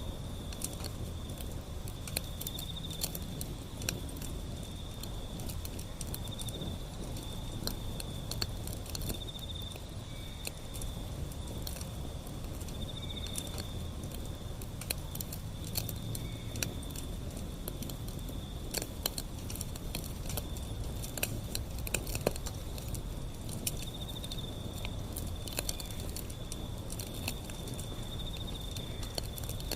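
Wood fire burning, with irregular sharp crackles and pops over a low steady rumble, and a steady high-pitched trill behind.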